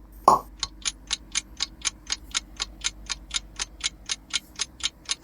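Clock-ticking sound effect, a steady run of sharp ticks about four a second, timing the guessing pause as a quiz countdown.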